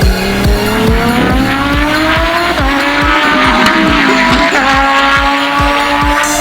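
Big-turbo VW Golf 7 GTI's four-cylinder turbo engine accelerating hard, its revs climbing and dropping back at two upshifts. Background music with a steady beat runs underneath.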